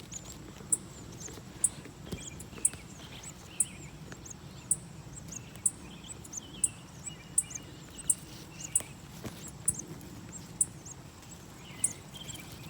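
Outdoor birdsong ambience: short, sharp, very high-pitched chirps about once a second, with bursts of softer, lower chirping now and then, over a steady low background hum.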